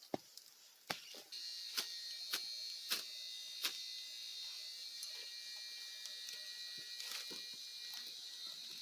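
A steady high-pitched buzz sets in abruptly about a second in and holds, with a few sharp snaps or clicks over it.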